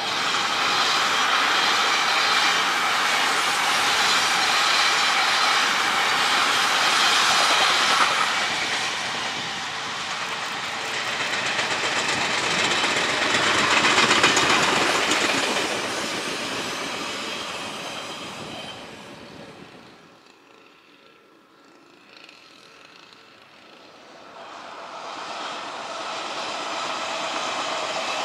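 Odakyu 60000 series MSE electric train passing at speed, its wheels clattering over the rail joints; the sound swells, peaks about halfway through, fades almost away about 20 s in, then builds again near the end as the train is heard once more.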